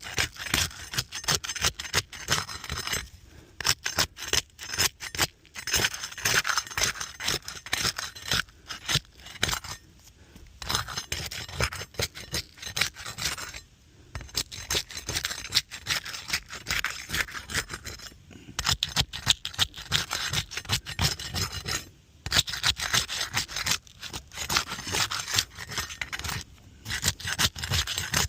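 Rapid, rough scraping and rubbing against asphalt shingles as they are worked loose, in runs broken by short pauses.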